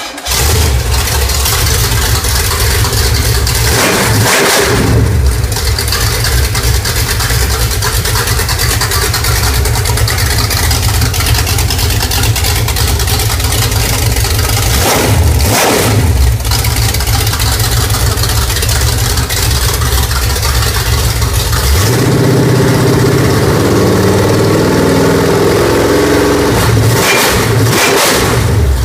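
Freshly built Pontiac stroker V8 crate engine with a mild flat tappet cam firing up and running loud and steady. The throttle is blipped briefly about three times, roughly 4, 15 and 27 seconds in.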